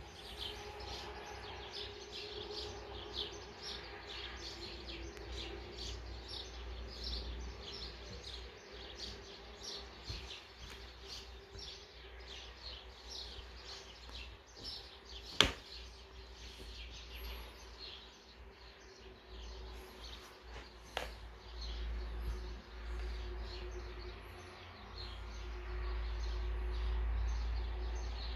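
Small birds chirping over and over in quick short notes, with a faint steady hum beneath. A single sharp click comes about halfway through, and a low rumble builds near the end.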